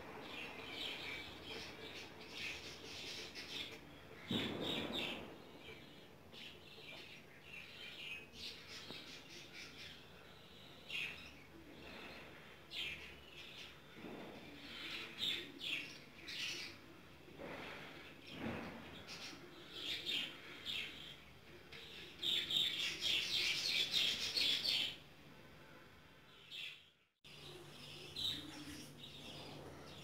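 Small birds chirping in irregular bursts of quick, high chirps, busiest near the end, over the faint steady hum of a running ceiling fan. The sound cuts out briefly near the end.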